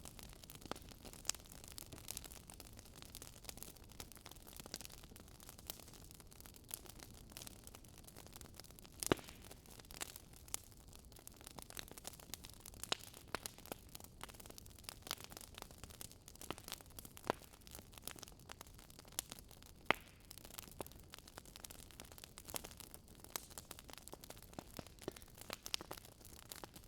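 Wood fire crackling in a fireplace: faint, irregular pops and snaps over a soft hiss, with the sharpest pops about 9 and 20 seconds in.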